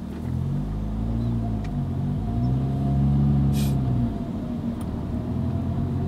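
Car engine heard from inside the cabin, revving up and dropping back twice as it accelerates through the gears, then running steadily.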